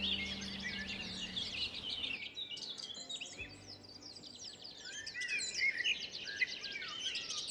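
Many small songbirds chirping and singing at once, a dense chorus of quick, high, rising and falling calls. Low background music fades out within the first second or so.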